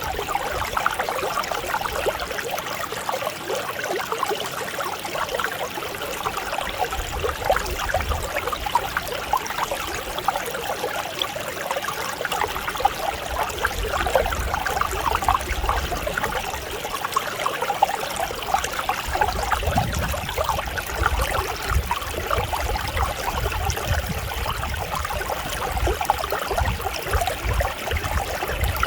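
Mountain stream flowing steadily, an even rushing and trickling of water.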